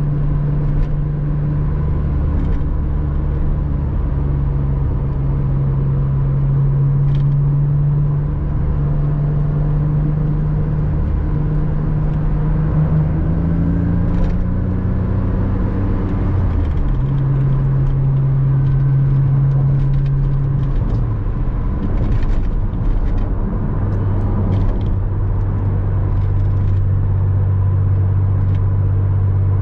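Porsche Boxster 986 flat-six engine running under way. Its note holds steady, climbs a little, then drops in pitch about halfway through and again later, under a few small clicks.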